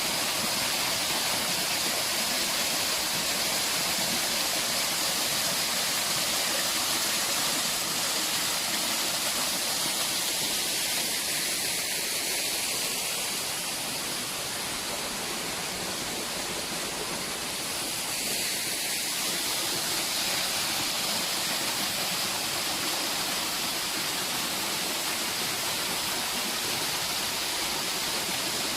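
Small waterfall: a steady rush of falling water, easing a little about halfway through.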